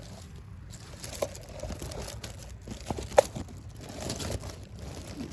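Hedge leaves and twigs rustling and crackling as they are pushed aside by hand, with scattered sharp clicks and one louder snap about three seconds in.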